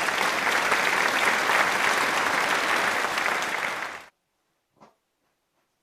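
Applause: a dense patter of many hands clapping that cuts off abruptly about four seconds in, followed by near silence with one faint tick.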